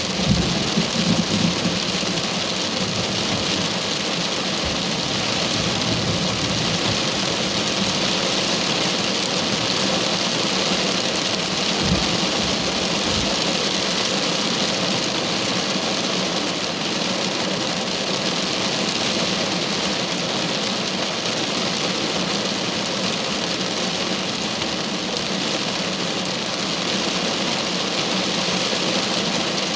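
Heavy rain falling steadily, a constant hiss of downpour, with a couple of brief low thuds near the start and about twelve seconds in.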